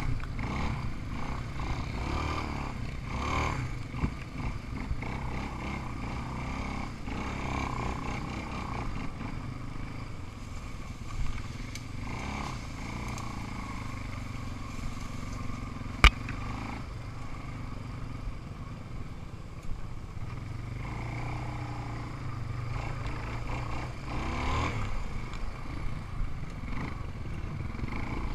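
Off-road vehicle engine running steadily while riding, with a few swells in level and a single sharp click about two-thirds of the way through.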